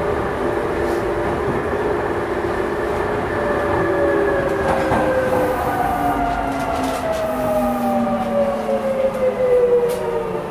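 Tobu 20070 series commuter train in motion, heard from inside the car. Its motor and inverter whine, several tones together, falls steadily in pitch over a rumble of wheels on rail as the train slows for a station.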